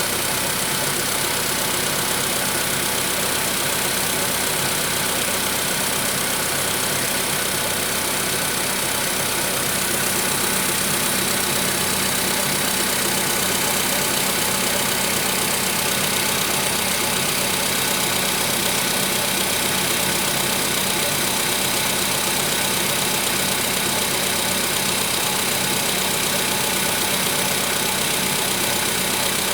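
Volkswagen Polo Sedan engine running steadily, with the engine knock that remains 1000 km after the piston group was replaced.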